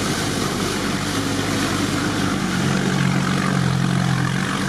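Off-road vehicle's engine running steadily under way on a muddy track, heard from inside the cab over a constant rushing noise; the engine note shifts to a different pitch about halfway through.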